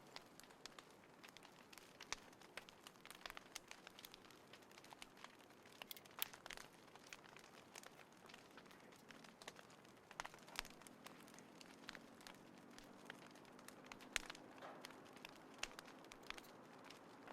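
Small wood fire crackling, with irregular sharp pops and snaps over a soft hiss.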